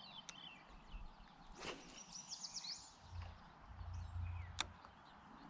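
Faint outdoor ambience with small birds chirping in short rising and falling notes, a low rumble in the middle, and one sharp click about four and a half seconds in.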